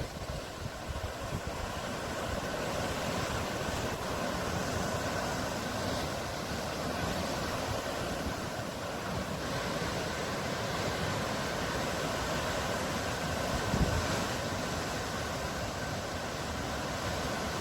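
Sea surf: a steady rush of waves washing in, rising and easing slowly, with wind rumbling on the microphone.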